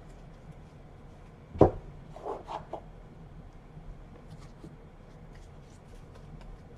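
A single thump about a second and a half in, then a few soft rustles and clicks: a trading-card box and its packs being handled on a table.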